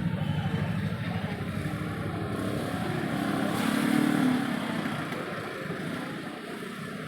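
A motor vehicle engine running close by, growing louder to a peak about four seconds in and then fading, as when a vehicle passes.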